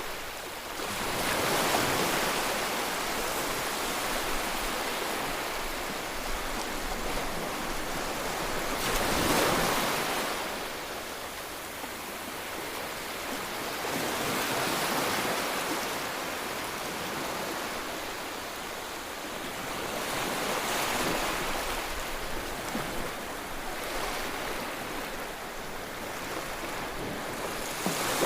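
Rushing water of Kakabeka Falls on the Kaministiquia River: a steady, even rush of falling water that swells and eases every several seconds.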